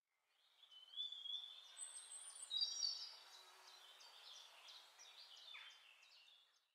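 Faint birdsong: short chirps and whistled notes over a soft hiss, strongest between one and three seconds in and trailing off before the end.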